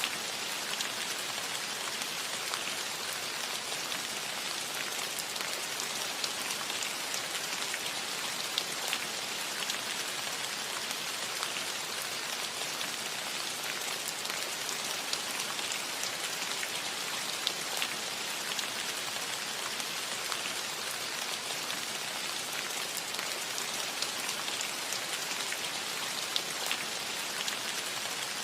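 Steady rain falling on a roof: a continuous even hiss with many scattered taps of single drops.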